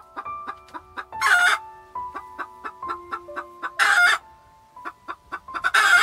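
Golden pheasant giving three short, harsh calls about two seconds apart, over soft plucked background music.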